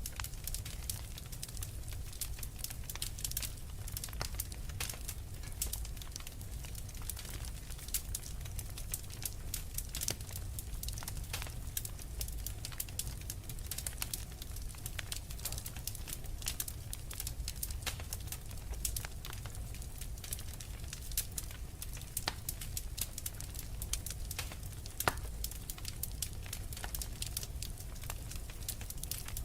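Wood fire crackling, with frequent sharp pops and snaps over a steady low rumble of blizzard wind.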